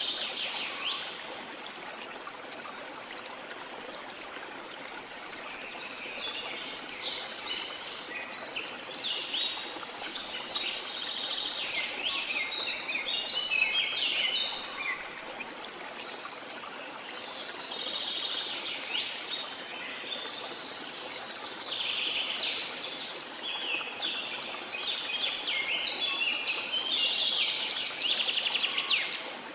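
Steady rush of a waterfall, with birds singing over it in long bouts of fast, high twittering notes that come in about six seconds in and keep returning.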